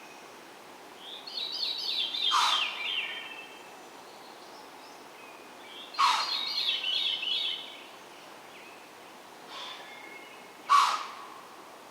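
Small birds chirping and twittering in short runs, with three short, sharp, loud sounds about four seconds apart.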